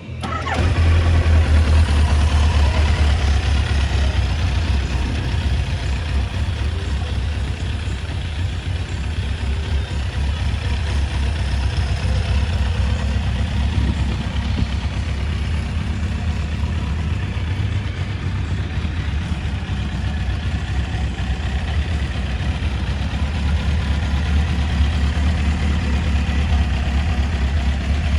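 1985 Kawasaki GPZ900R Ninja's liquid-cooled inline-four engine idling steadily.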